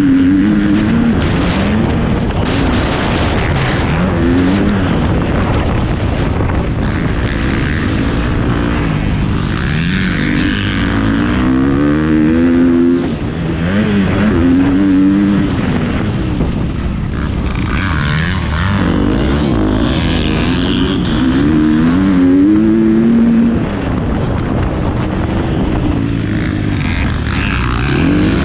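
Motocross dirt bike engine revving hard, its pitch climbing and dropping again and again as the throttle is worked and gears change, over a constant rush of noise.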